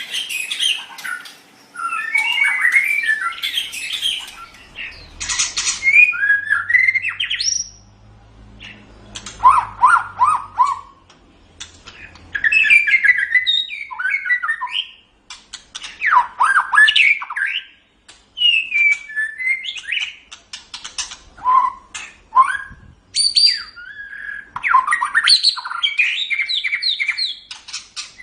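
White-rumped shama (murai batu) singing: a string of varied whistled phrases with quick rising and falling notes and some harsher notes, broken by short pauses.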